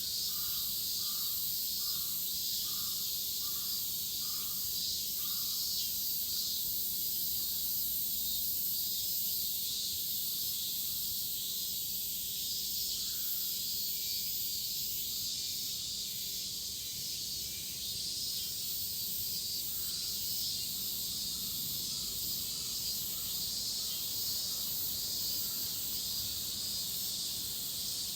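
A chorus of cicadas shrilling in a steady, high-pitched hiss. Beneath it, a faint note repeats about twice a second for the first several seconds.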